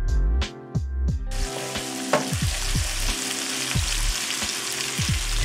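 Sliced carrots and green onions sizzling in hot oil in a wok as they are stirred with a wooden spatula; the sizzle comes in about a second in. Background music with a steady beat plays throughout.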